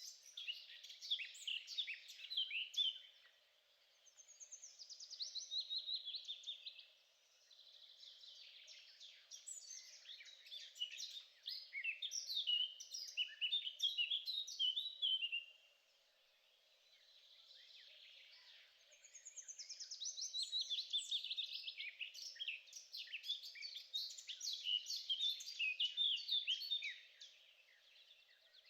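A songbird singing long, fast runs of varied chirps and trills, each phrase lasting several seconds with short pauses between, over a faint steady hum.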